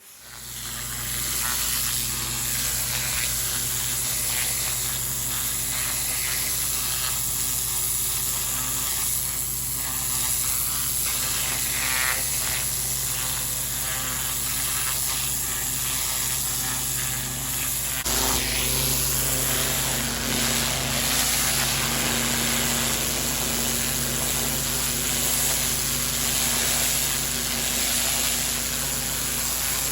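Pressure washer running steadily, its engine and pump humming under the hiss of a high-pressure water jet blasting grime and moss off block paving. The tone shifts slightly about eighteen seconds in.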